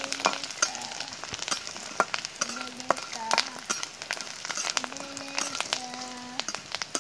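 Potato chips frying in hot oil in a wok, sizzling and crackling, while a metal spatula stirs them and clicks and scrapes against the pan. A few short steady pitched tones, each about half a second long, sound quietly in the background.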